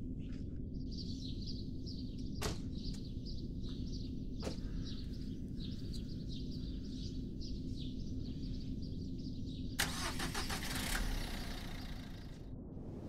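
Car engine running steadily, with a short sharp knock about two and a half seconds in and a louder rush of noise starting about ten seconds in.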